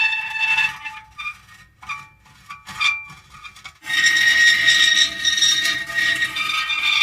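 Metal creaking in long, high-pitched squeals: loud at first, fading into short broken squeaks about a second in, then a loud, steady squeal again from about four seconds in.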